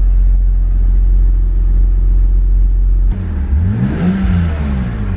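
BMW 328i straight-six running through a Magnaflow muffler, heard from inside the cabin with the windows open: a steady low drone at first, then about three seconds in a sudden jump to rushing air and road noise as the engine revs rise and fall.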